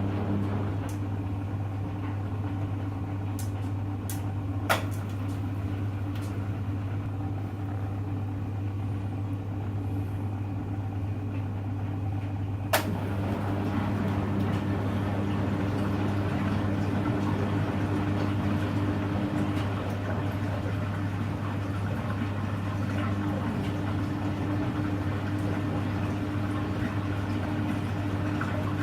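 Hoover Electra front-loading washing machine running with a steady low motor hum, with two sharp clicks, one about five seconds in and one near the middle.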